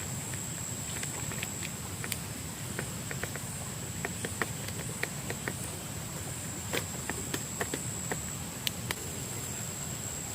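Forest ambience: a steady, high-pitched insect drone with a slight pulse over a low, even rush, with scattered sharp clicks and crackles in the middle seconds.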